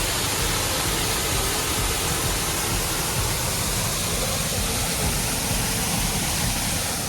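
Steady rush of falling water from a waterfall, an even hiss with a low rumble beneath it.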